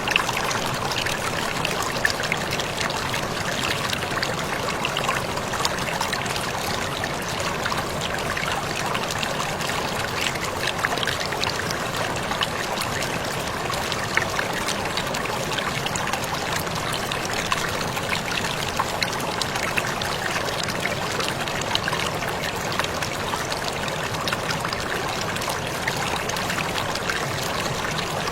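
Falling water splashing and trickling steadily, with many small splashes and drips over a continuous rush: a waterfall pouring at the mouth of a cave.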